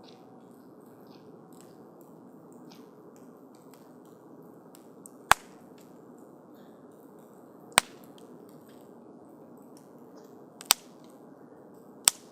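Wood campfire burning with a steady soft hiss and faint crackle, broken by four sharp loud pops from the burning wood, spaced a few seconds apart.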